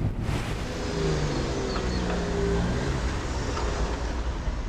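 Road traffic: a motor vehicle's engine rumbling past, its engine note standing out for a couple of seconds, about a second in.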